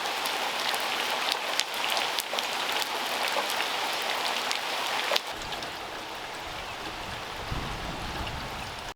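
Rain falling, with many sharp individual drops striking close by for the first five seconds. About five seconds in it changes abruptly to a quieter, steadier rain with a low rumble underneath.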